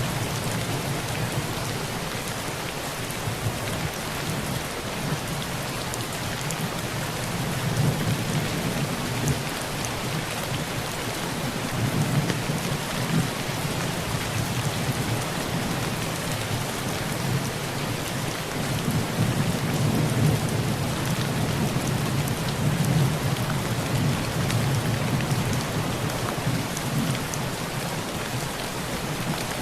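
Heavy rain falling steadily on a tin roof, with low thunder rumbling under it and swelling a few times.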